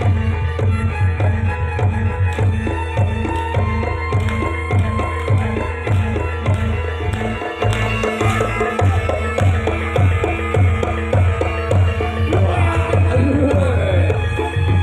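Javanese reog gamelan music: fast, driving kendang hand-drumming over steady repeated gong-chime tones. About halfway through, a wavering, sliding melody line comes in on top.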